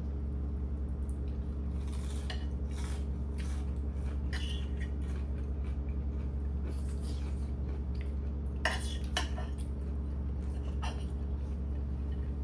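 Kitchen utensils clinking against dishes and pans in scattered knocks, the sharpest a little before 9 s, over a steady low hum.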